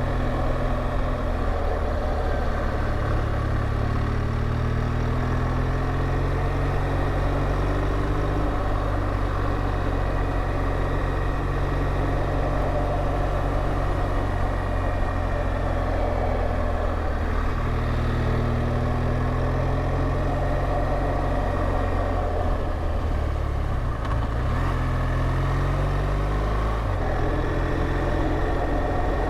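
BMW R1200GSA's boxer-twin engine running under way, its pitch rising and falling several times as the revs change.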